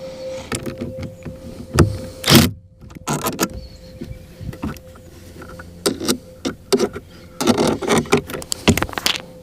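Irregular clicks, knocks and rattles of hard parts being handled and fitted into a Mercury outboard remote control, over a faint steady hum.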